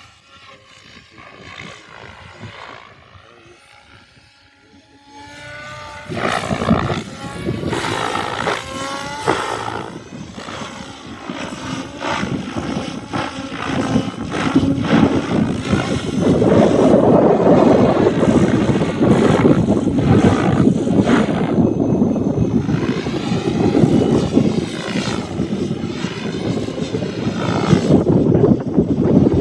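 RS7 radio-controlled helicopter in flight, its rotor and drive whine rising and falling in pitch as it manoeuvres. It is faint at first and grows loud about six seconds in.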